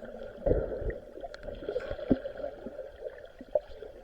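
Muffled sloshing of seawater with dull thumps about half a second in and just after two seconds in, and a short sharp knock near the end.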